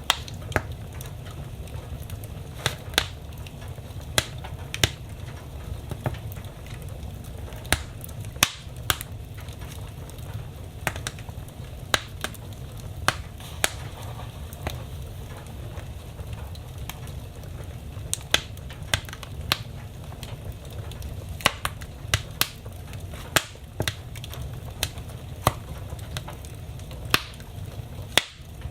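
Fire burning in a fireplace, crackling: irregular sharp pops and snaps, a few of them loud, over a steady low rumble of the flames.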